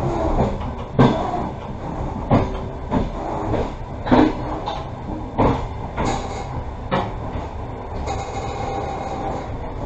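Passenger train rolling along the track: a steady rumble of wheels on rail with irregular sharp clacks as the wheels pass over rail joints or points. Near the end a faint steady whine sits over the rumble.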